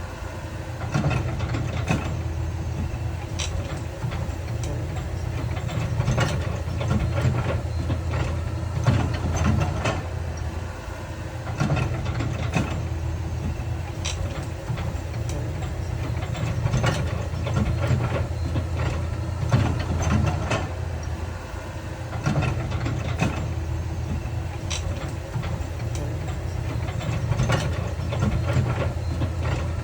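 Heavy diesel earthmoving machinery running steadily at work, with frequent sharp clanks and knocks of metal and rock.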